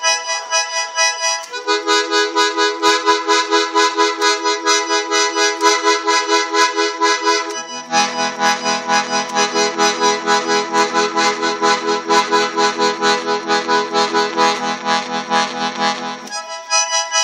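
Parrot accordion played in chords, the notes pulsed in a quick even rhythm, with the bass chord changing three times.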